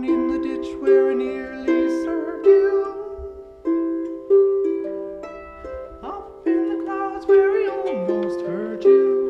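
Live acoustic music: a plucked string instrument playing an instrumental passage of ringing, fading notes, a new note or chord roughly every second.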